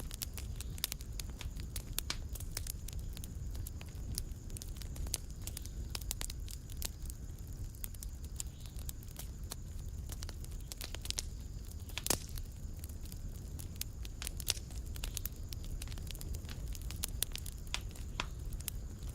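Wood fire in a fireplace crackling and popping: many irregular sharp snaps over a steady low rumble, with one louder pop about twelve seconds in.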